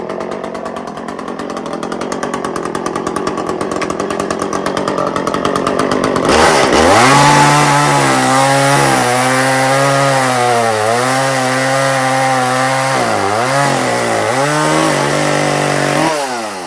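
Wood-Mizer LX55 band sawmill running: its engine runs rough and steady, then revs up about six seconds in as the blade cuts through a poplar log. The pitch dips and recovers as the cut loads the engine, and it drops away near the end.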